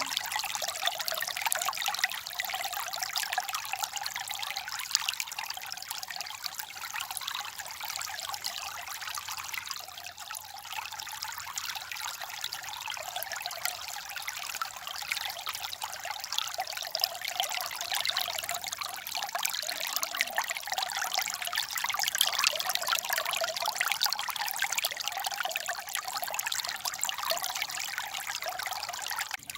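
Water trickling and babbling steadily, like a small forest stream.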